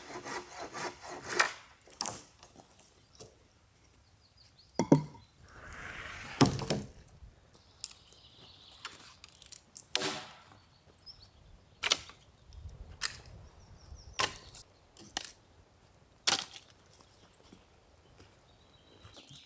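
Wood being knocked and scraped by hand: a quick run of clicks at first, then single sharp wooden knocks every second or two, with a few short rasping scrapes between them.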